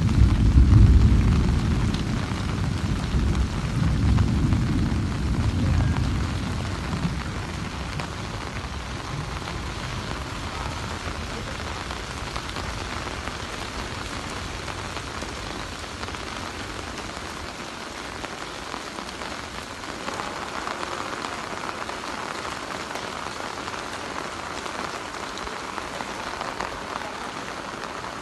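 Heavy rain falling steadily, with a long rolling rumble of thunder over the first seven seconds or so, loudest about a second in.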